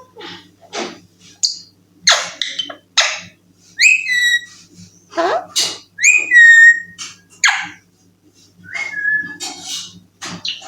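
Pet parrot giving a run of short whistles and harsher calls, about a dozen in quick succession, several of the whistles falling in pitch, with a short pause about two-thirds of the way through.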